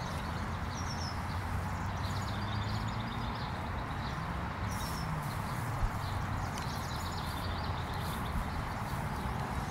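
Outdoor ambience: small birds chirping, short high chirps that come every few seconds, over a steady background hiss and low hum.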